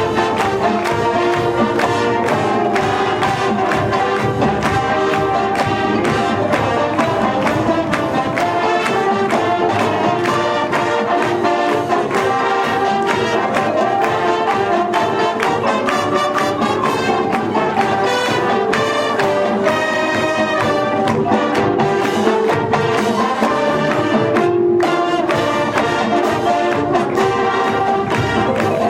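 School band playing music led by brass (trumpets and trombones) with steady drum beats, with a momentary break about three-quarters of the way through.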